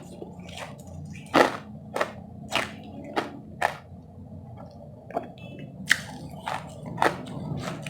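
Close-up chewing of powdery ice: about ten crisp crunches, roughly half a second apart, with a short pause around the middle.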